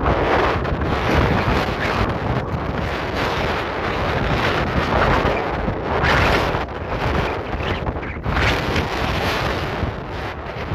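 Strong gusting wind hitting the microphone: a continuous loud rushing that swells and eases with each gust.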